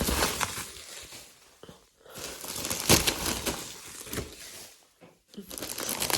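Paper wrapping crinkling and rustling as it is pulled off and unwrapped by hand, in three spells with brief pauses about two and five seconds in.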